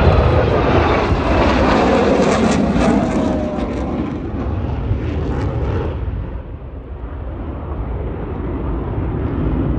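Aircraft engine noise from a low pass: a loud rumble at its peak right at the start, with a falling whine as the aircraft moves off. The top end fades away after about six seconds, and the rumble swells again near the end.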